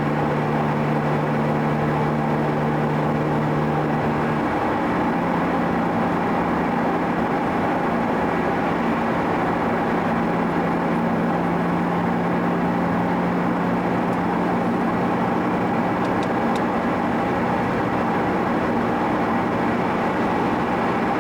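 Car engine running steadily at cruising speed with road noise, its hum stepping up slightly in pitch about four seconds in.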